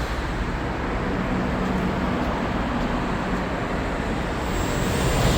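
Steady low rumbling background noise, with a faint low hum from about one second in to about three and a half seconds in.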